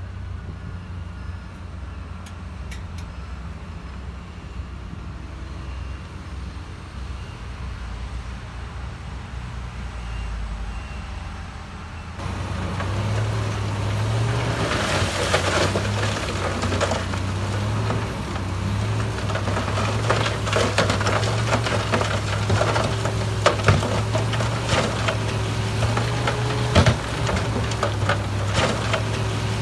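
Heavy diesel earthmoving machinery running with a steady low engine note. About twelve seconds in it gets louder, with the engine working harder and continual clattering and knocking.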